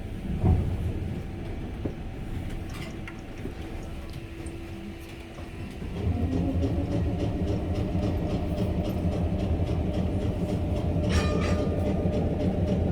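Tram running on its rails, a steady low rumble with a few steady tones and a knock about half a second in. It grows louder about halfway through as the tram gets moving.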